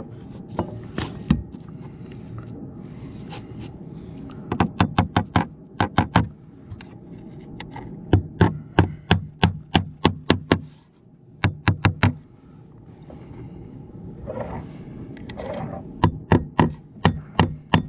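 Hammer driving nails to fasten fibre-cement artificial slates, in several runs of sharp strikes at about two to three a second, with short pauses between the runs.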